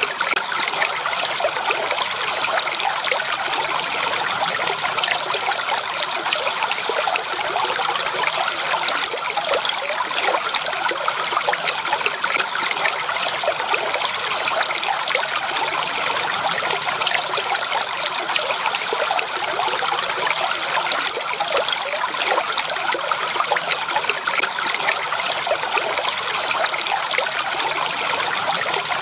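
Water flowing and trickling steadily over stones in a stream, an even babble with many small splashes and no change in level.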